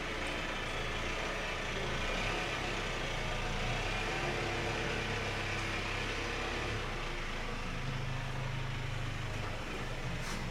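A motor vehicle engine running steadily with a low hum that shifts in pitch, over a steady hiss.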